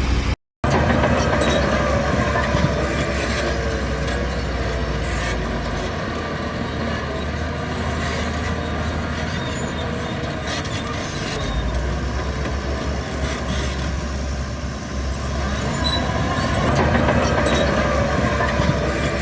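Shantui DH17 crawler bulldozer working, its diesel engine running steadily under load with the steel tracks clanking and rattling. The sound cuts out completely for a moment about half a second in.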